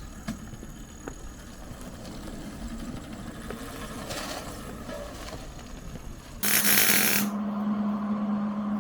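Small 125cc dirt-bike engine running on the drift trike, a faint, steady low rumble. About six and a half seconds in, a sudden loud burst of hiss gives way to a steady hum.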